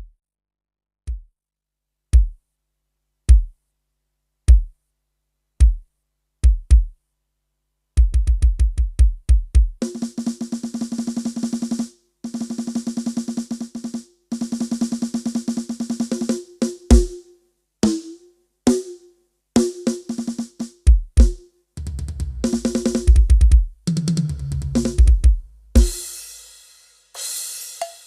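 A sound-check drum track for testing sound systems, heavy on bass. Single deep bass-drum hits come about once a second, then fast drum rolls and snare fills start about eight seconds in. A low bass line and a cymbal crash come near the end.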